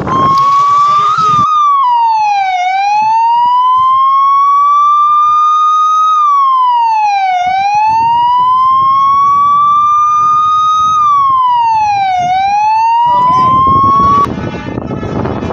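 Siren wailing, its pitch rising slowly and falling more quickly in cycles of about five seconds, very loud; it cuts off suddenly near the end.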